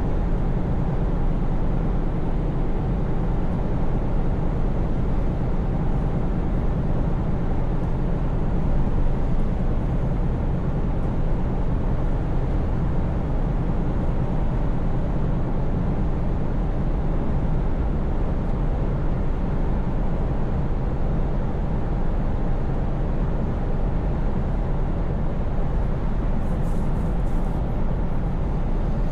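Scania V8 truck engine running steadily at cruise, a low even drone over a constant rushing road noise.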